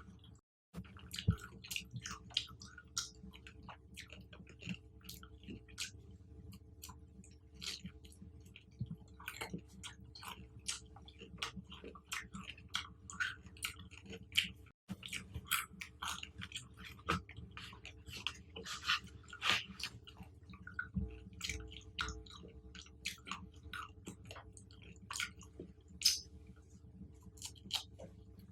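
Close-miked chewing of fruit: a dense run of short crunches and mouth clicks over a steady low hum. The sound cuts out briefly twice, just after the start and about halfway through.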